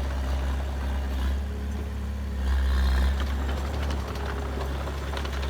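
Heavy earthmoving machine's diesel engine running steadily with a deep rumble, briefly a little louder around the middle.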